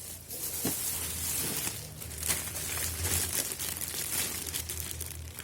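Plastic packaging being handled and crinkled, an irregular rustling and crackling, over a low steady hum.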